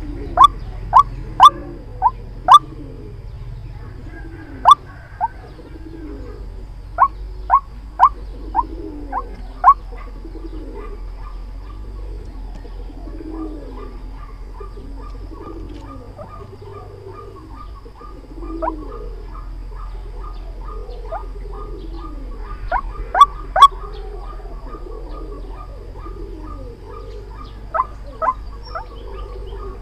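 White-breasted waterhen calls: loud, sharp call notes in clusters (a run at the start, another around a third of the way in, a pair in the later part, a few near the end) over a steady series of softer, lower repeated notes, with a fast chatter of quick ticks through most of the clip.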